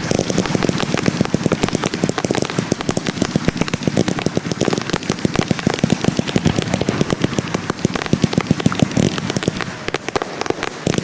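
Professional fireworks display firing a dense, rapid barrage of bangs and crackles, many reports a second without a break.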